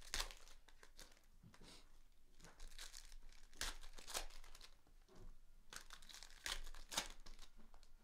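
Trading-card pack wrappers being torn open and crinkled: a string of irregular crackling rustles, loudest just after the start, around four seconds in and around seven seconds in.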